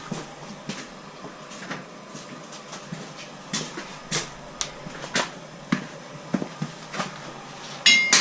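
Irregular clicks and knocks of metal tools and parts being handled during motorcycle chain and sprocket work, with a short metallic ring near the end.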